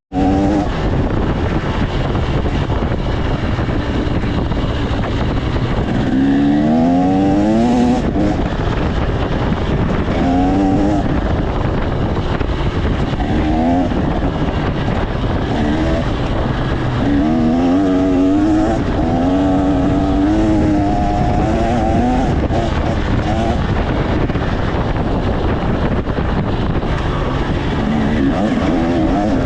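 2025 KTM 300 XC two-stroke dirt bike engine under way, its revs rising and falling over and over as the throttle is worked, over a steady rushing noise.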